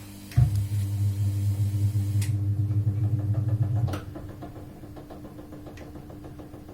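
Polytron automatic washing machine's motor running the wash agitation. It starts with a thump, runs for about three and a half seconds with a wavering low hum, and stops. Light ticking follows while the drum coasts, and the motor kicks in again at the very end: the washer is working on its modified control module.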